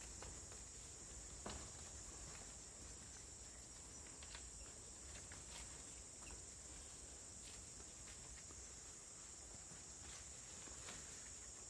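Faint ambience: a steady high-pitched insect drone with scattered faint clicks.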